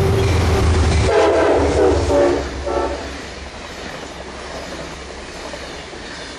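Passenger train passing at speed, its locomotive sounding its horn for about two seconds as it goes by, the horn's pitch dropping partway through. The deep engine rumble fades out as the horn ends, leaving the rush of the passing cars on the rails.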